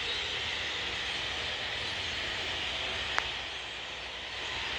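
The massed chatter of a huge flock of thousands of birds calling at once from the trees, a steady dense din. There is one sharp click about three seconds in.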